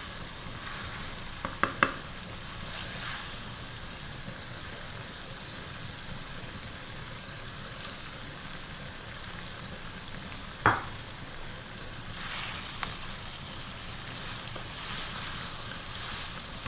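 Chicken frying in oil and masala in a metal karahi on high flame, a steady sizzle of the bhunai stage as the last liquid cooks off and the oil rises. A wooden spatula stirs through it and knocks against the pan twice early on and once, louder, about midway.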